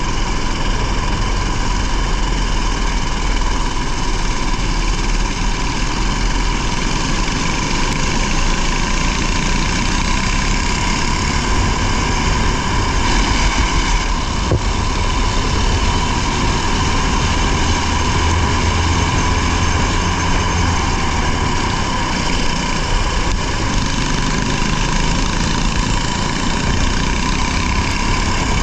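Rally car engine running, heard from inside the car, with a steady, even note and little change in pitch.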